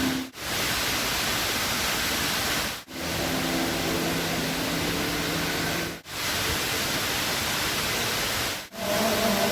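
Indoor waterfall, water falling in a steady loud rush of hiss, which drops out briefly about every three seconds.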